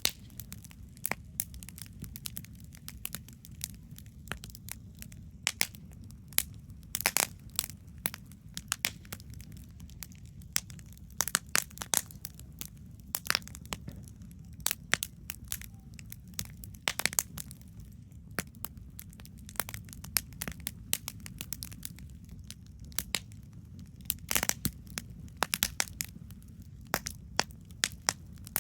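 Wood campfire crackling: irregular sharp pops and snaps, a few a second with louder clusters now and then, over a low steady rumble.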